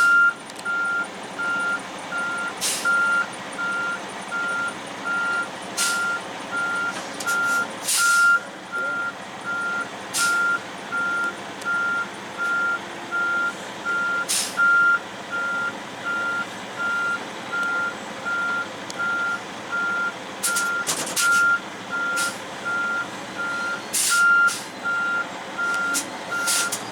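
Heavy-duty truck's backup alarm beeping steadily about once a second while the truck reverses, over the diesel engine's running hum. Several short, sharp noisy bursts come now and then.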